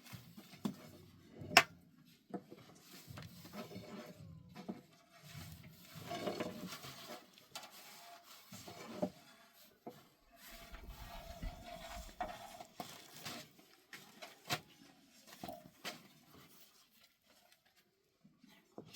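Irregular rubbing, scraping and light knocking of objects being handled, with one sharp knock about a second and a half in.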